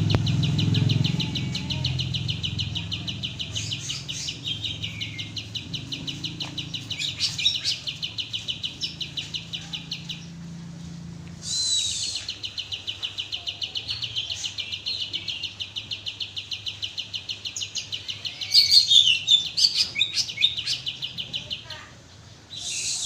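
Kapas tembak songbird singing a long, fast, evenly pulsed rattling trill that breaks off for about a second midway and then resumes. Sharper chirps and short whistled glides sound over it, loudest near the end, over a low hum in the first half.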